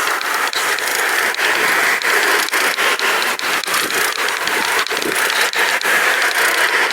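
Pedal bike riding over a rough path: a steady rushing noise with quick, irregular clicks and rattles from the tyres and frame.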